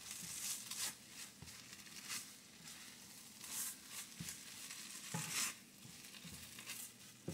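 Fried rice sizzling in a stainless steel skillet while it is stirred and broken up with a spatula. The hiss swells several times as the rice is turned over, and the spatula knocks softly against the pan now and then.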